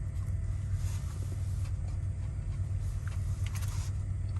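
Steady low rumble of a truck engine idling, heard inside the cab, with two brief rustling noises about a second in and near the end.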